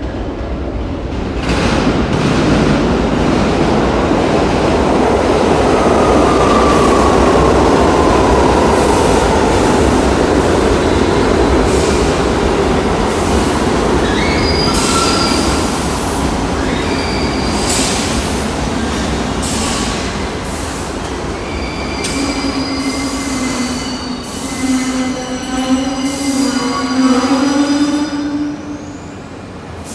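R62 subway train pulling into a station: the rumble of the cars builds, a whine falls in pitch as the train slows, then wheel and brake squeals at several pitches, with the level dropping off near the end as it comes to a stop.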